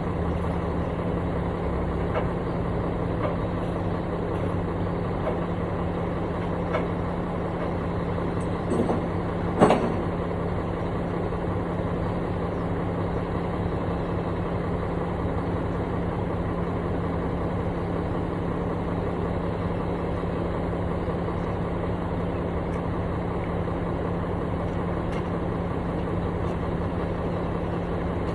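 Construction machine's diesel engine running steadily at idle with a low hum. One sharp clunk about nine and a half seconds in.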